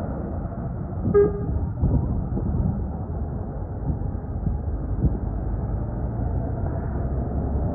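Steady low engine and road rumble of a heavy truck on the move, with one short horn toot about a second in.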